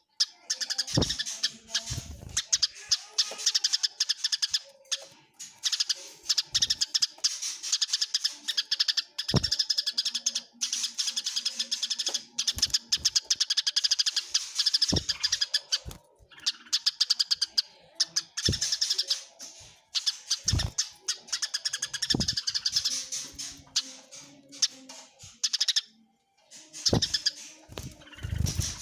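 Eurasian tree sparrows giving fighting calls: dense runs of rapid, high chirps with short pauses between them, and a few brief low thumps now and then.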